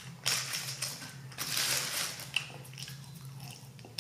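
Close-up eating sounds: chewing fries, with the paper wrapper crinkling as her hand picks through the fries. Two longer spells of crackly noise come about a third of a second and about a second and a half in.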